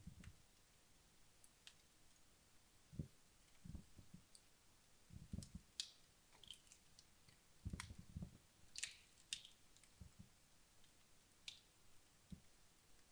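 Wood fire in a fireplace, burned low near the end of its burn, giving faint scattered crackles and soft low pops every second or two.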